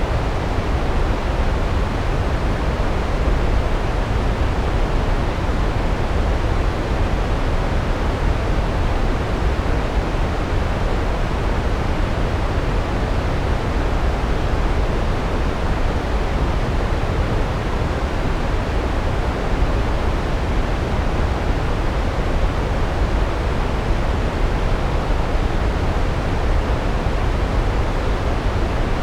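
Large waterfall: a steady roar of falling water, heaviest in the low end.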